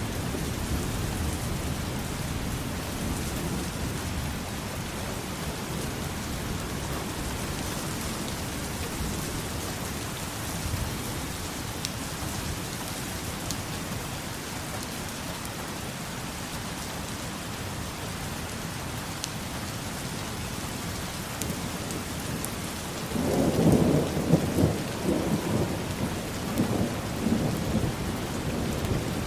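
Steady rain falling in a thunderstorm. A low rumble of thunder fades in the first seconds, and about 23 seconds in a loud roll of thunder breaks in and rumbles on to the end.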